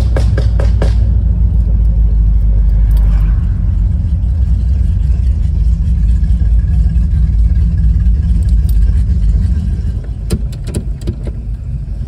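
1970 Dodge Charger's engine running at low road speed, heard from inside the cabin as a steady low rumble. A few sharp clicks come near the start and again about ten seconds in, where the engine gets a little quieter.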